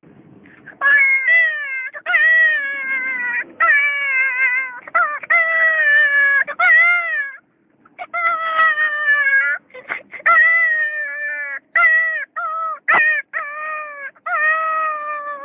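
A man imitating high-pitched animal cries with his voice: a rapid string of wavering whines and yelps, each dropping in pitch at its end, with a short pause a little past halfway.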